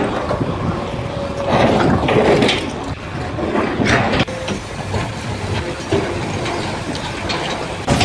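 Heavy machinery running steadily, with louder surges now and then.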